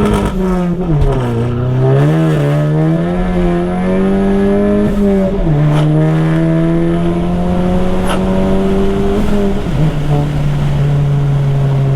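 Tuned Volkswagen MK7 Golf GTI's turbocharged four-cylinder engine accelerating hard through the gears of its manual gearbox: the engine note climbs steadily, then drops at each quick upshift, about a second in, about five and a half seconds in and again near ten seconds in.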